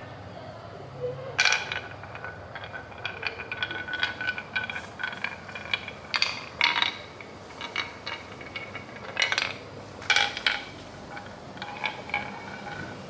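Glass marbles clicking and clinking on a marble-run track, a quick irregular series of hard taps that each ring briefly, with louder knocks about a second and a half in and again around six, nine and ten seconds.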